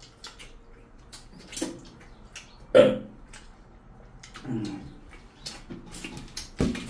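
Eating by hand with the mouth close to the microphone: scattered wet chewing and mouth clicks, with short throaty vocal sounds about three seconds in and again about a second and a half later.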